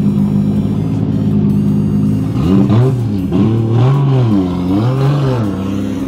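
Drift car engine idling steadily, then revved three times in quick succession about halfway through, each blip rising, holding and dropping back, before it settles to idle again.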